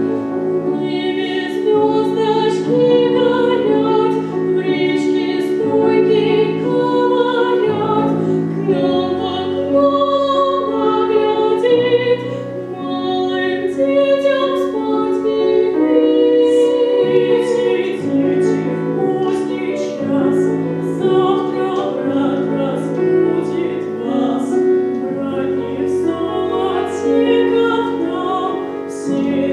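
Two female voices singing a classical vocal duet with piano accompaniment.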